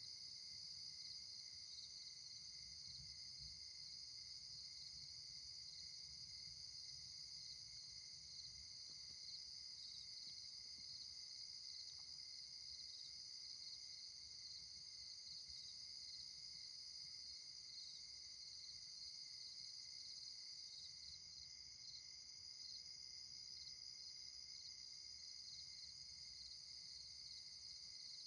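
Faint, steady night chorus of crickets and other insects: continuous high trilling at several pitches that never lets up, with a faint low rumble underneath.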